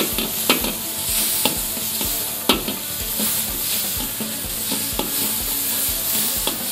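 Sliced tomatoes sizzling in hot oil in a wok, with a steel ladle stirring them and knocking against the wok about once a second.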